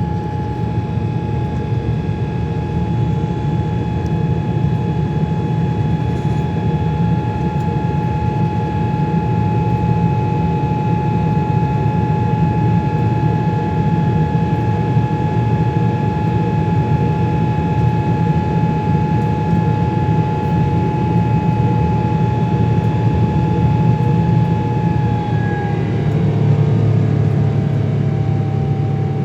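Boeing 777-300ER's GE90 turbofan engines running steadily: a high whine over a deep rumble. Near the end the whine drops slightly in pitch.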